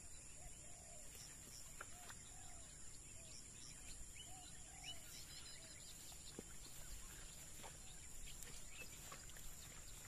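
Near silence with faint outdoor ambience: a few soft, short bird calls through the first half, over a steady high hiss, with a few faint clicks.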